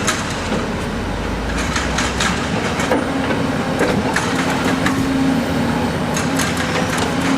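Heavy diesel construction machine running, its engine humming steadily under a stream of short clanks and knocks of rock and steel.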